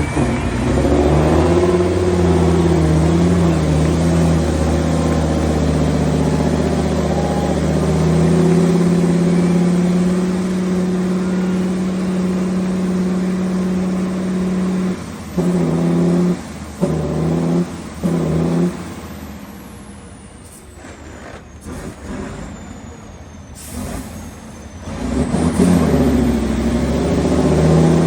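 Big mud-bog truck engines running loud at high revs, then cutting in and out abruptly in several short bursts. A quieter stretch follows, and the engine sound rises again near the end.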